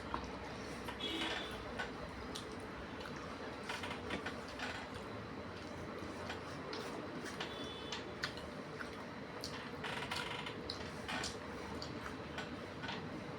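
Eating sounds: irregular soft clicks and wet smacks of chewing and of a hand mixing rice with fish curry on a plate, over a faint steady hum.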